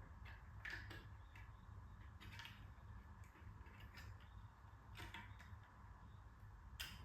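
Faint, scattered clicks and light knocks over a low steady hum.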